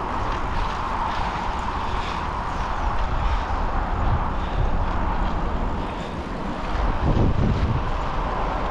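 Steady wind and road noise from riding a bicycle at speed, with a stronger low rumble about seven seconds in.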